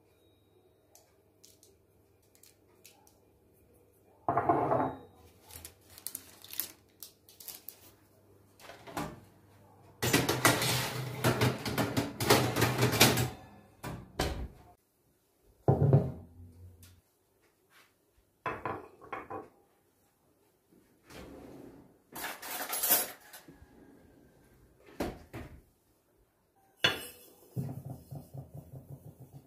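Dishes and cutlery clinking and clattering in separate bursts, with a denser stretch of clatter about ten seconds in and a quick run of clicks near the end.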